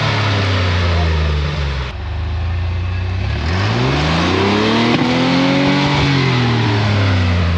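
A 4x4 rock crawler's engine revving hard under load on a climb. The revs sag at first, sweep up again about three and a half seconds in, and ease off near the end.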